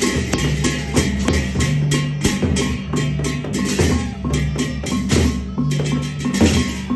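Gendang beleq ensemble playing: a dense, fast run of drum and clicking percussion strokes over steady low held tones.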